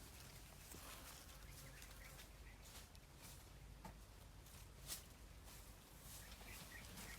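Near silence: faint outdoor ambience with a few faint, short bird chirps and one soft click about five seconds in.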